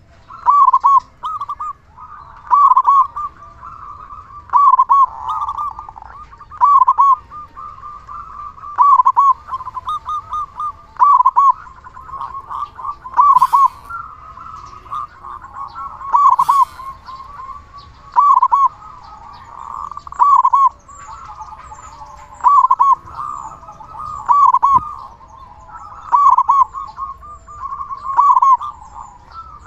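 Zebra dove (perkutut) cooing over and over, a loud rolling call phrase repeated about every two seconds.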